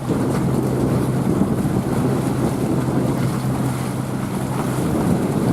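Ship's engine giving a steady low hum under a rough wash of water, with wind buffeting the microphone.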